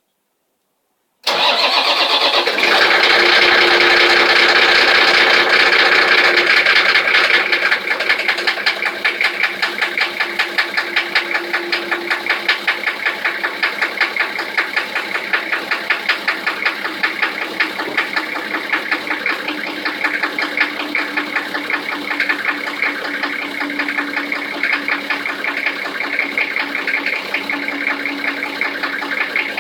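Toyota 1HZ straight-six diesel engine starting about a second in, then idling cold with a rapid, even knocking pulse that eases a little after several seconds. The knock is the cold-engine knock the engine is being shown for.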